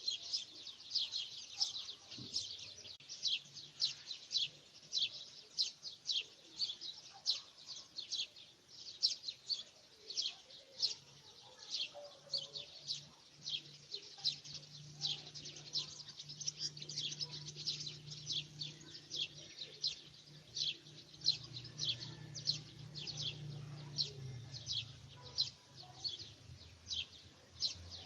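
Small birds chirping continuously: short, high chirps repeated about twice a second without a break.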